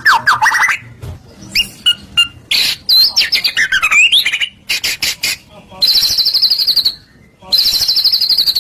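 White-rumped shama (murai batu) in full song: a fast, varied run of sliding whistles, trills and clicks, then two long buzzy rattling phrases in the second half.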